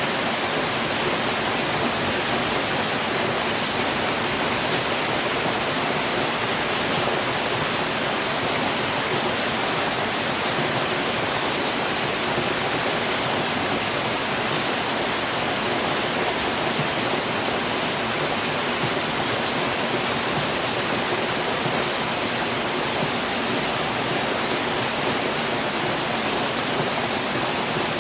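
Steady heavy rain falling on a house roof, an even hiss with faint scattered taps.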